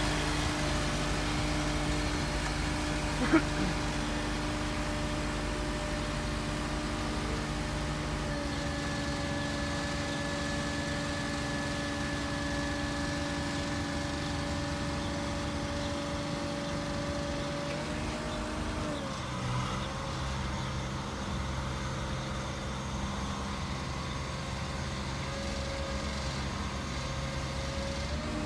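Pony motor, the small auxiliary gas engine of a forestry bucket truck, running steadily to drive the boom hydraulics. Its note changes about 8 seconds in and again dips and settles around 19 seconds in. A single sharp click sounds a few seconds in.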